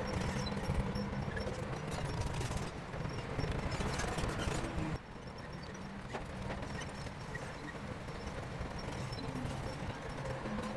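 Bulldozer's diesel engine running, with scattered clanking from its steel tracks. The sound drops suddenly in loudness about five seconds in, then carries on lower.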